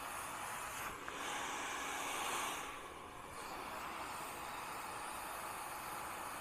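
Handheld blow dryer running with a steady rush of air. The air is louder and brighter from about a second in, then dips briefly around three seconds in.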